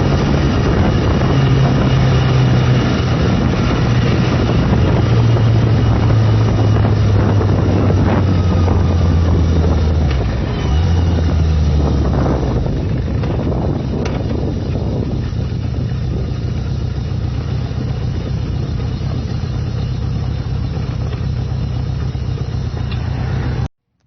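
A 1979 Yamaha XS1100 motorcycle's inline-four engine is running on the road under heavy wind rush. The engine note drops in a few steps over the first dozen seconds, then fades into steady wind and road noise. The sound cuts off abruptly just before the end.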